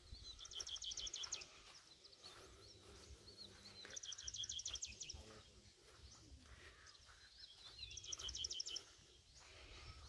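A small bird singing a fast, high trill of evenly repeated notes, about a second long, three times at roughly four-second intervals, faint against quiet outdoor background noise.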